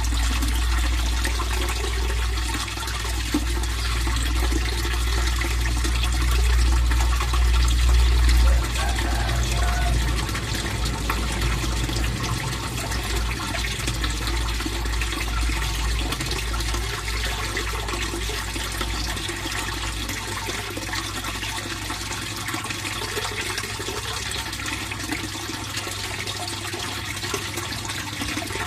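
Water flowing steadily in a fish pond, a constant splashing run of water, with a low rumble underneath that eases off about nine seconds in.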